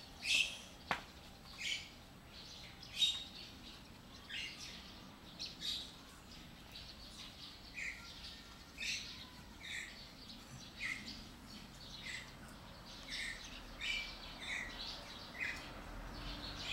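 A bird chirping over and over in short, high chirps about once a second, with a single sharp click about a second in.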